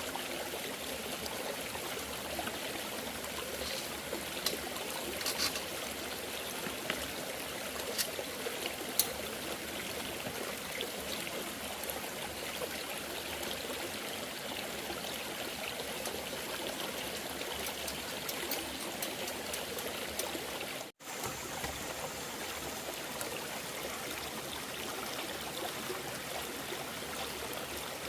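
Steady running water, like a stream flowing, with a few light clicks in the first nine seconds and a momentary break about 21 seconds in.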